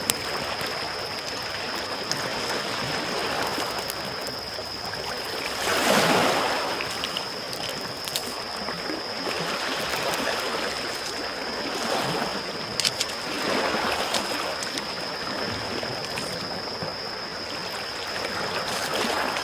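Small waves lapping and washing onto a shore, each wash swelling and fading, the biggest about six seconds in, with sparse crackling clicks from a wood campfire. A faint steady high whine runs underneath.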